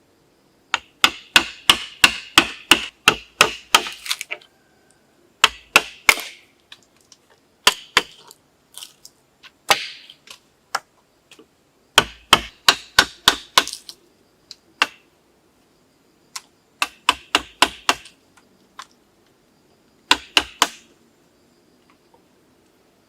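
A blade chopping on wood in quick, even runs of strikes, about four or five a second, stopping and starting again several times.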